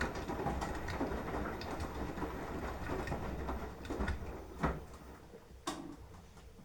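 Beko washing machine drum turning its wash load, with a low rumble and irregular knocks of the tumbling laundry. The drum winds down and stops about five seconds in, with a couple of sharp clicks as it stops.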